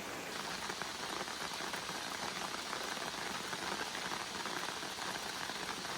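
Steady rain falling, a dense pattering of many small drops on a surface.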